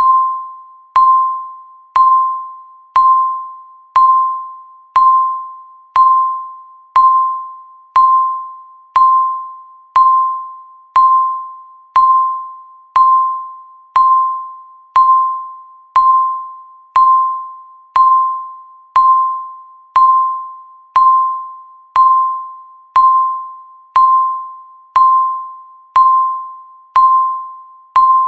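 Countdown timer beeping once a second, ticking off the seconds: each beep is a single mid-pitched electronic tone that starts sharply and fades away before the next.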